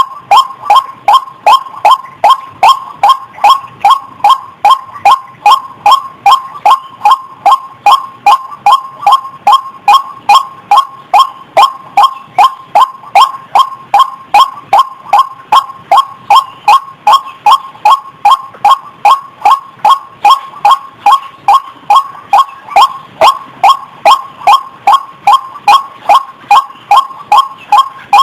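White-breasted waterhen (ruak-ruak) calling, one loud nasal note repeated without a break, a little over two notes a second.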